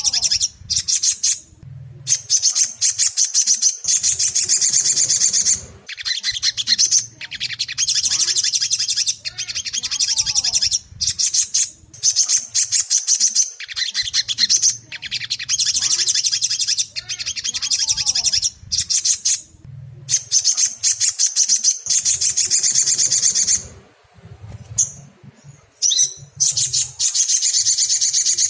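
Crimson sunbird (sogok ontong) song: rapid, high trilled phrases a couple of seconds long, repeated over and over with short gaps.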